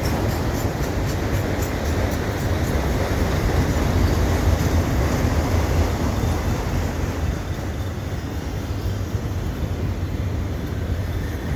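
Freight train cars, auto racks among them, rolling past on the rails: a steady, loud rumble of steel wheels on track, with a run of rhythmic clicks in the first few seconds.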